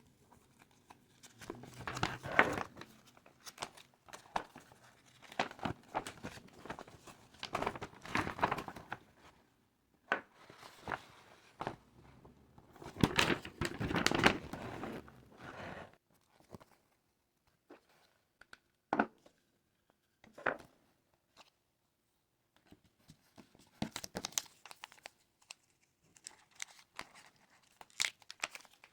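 Plastic packaging being handled, crinkling and tearing in irregular bursts with short pauses, with a couple of single clicks in the quieter middle stretch.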